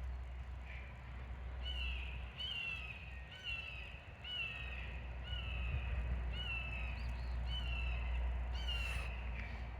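A bird calling over and over: about ten short, harsh calls, each falling in pitch, coming roughly one every second, over a steady low hum.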